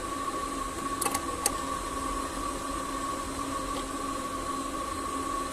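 Steady mechanical hum with a constant whine, and two light clicks about a second in.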